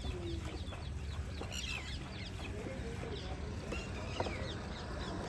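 Birds chirping: many short, high calls that fall in pitch, scattered throughout, over a low steady rumble.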